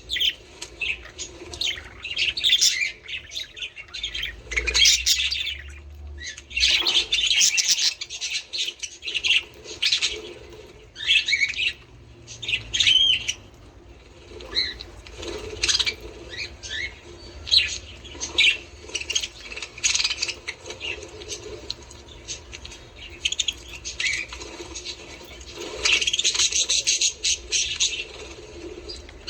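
A group of budgerigars chattering and warbling: dense, quick high chirps that thicken into busy bursts and then thin out again.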